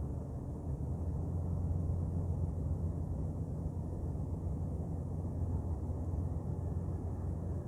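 Ship's engine running steadily: an even, unbroken low drone.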